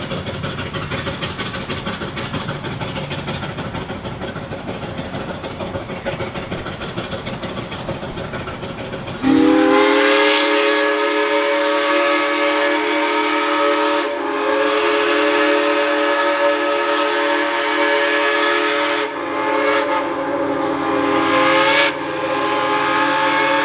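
Shay 11 steam locomotive working with a steady rushing noise. About nine seconds in, its original Canadian four-chime steam whistle starts blowing a loud chord of several notes that slides up slightly as it opens. The whistle is held for long blasts, with short breaks near the end.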